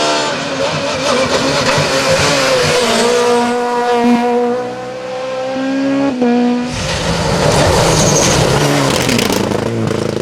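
Rally car engine at high revs, its pitch climbing as it accelerates, then dropping sharply with a gear change about six seconds in. After that the car passes close with a louder rush of engine and tyre noise.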